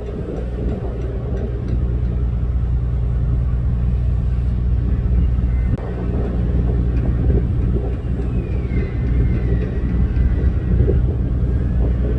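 Steady low rumble of ship's machinery, with a constant engine hum underneath. A faint high whistle dips in pitch about eight seconds in.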